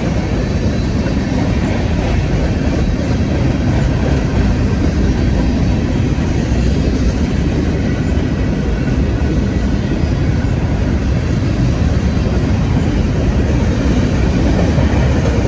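Freight train rolling past, a loud, steady rumble with no breaks.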